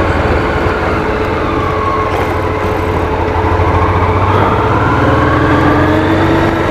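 Motorcycle engine running steadily while riding, its pitch dipping slightly and then climbing again past the middle as the bike speeds up.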